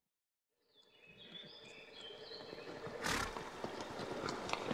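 A horse calling, a whinny-like sound that fades in after a brief silence and grows louder toward the end, with a sudden louder burst about three seconds in.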